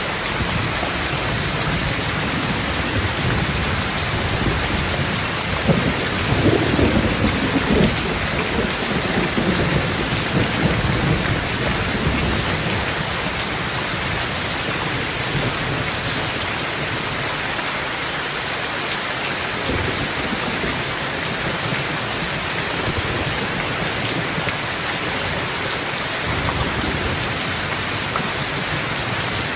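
Steady rain falling, with a roll of thunder that swells about six seconds in and rumbles on for several seconds before fading.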